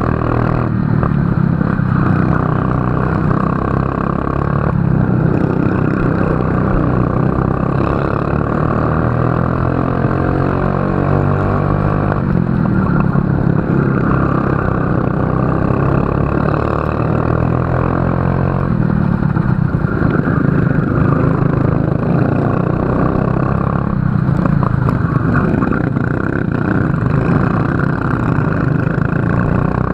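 Racing kart engine running hard through a lap, its pitch climbing steadily under acceleration and dropping sharply a few times as the throttle is lifted for corners.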